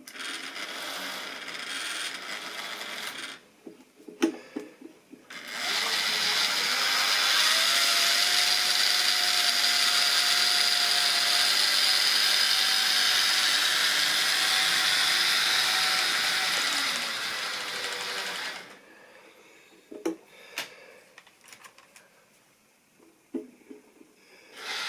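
Model railway train running on its track with the steady whine of a small electric motor. It grows loud for about thirteen seconds from around five seconds in, then fades away. Scattered clicks come before and after.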